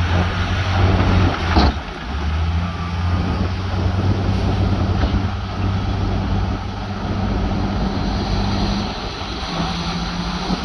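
Heavy diesel earthmoving machine running steadily, with one sharp clank about a second and a half in.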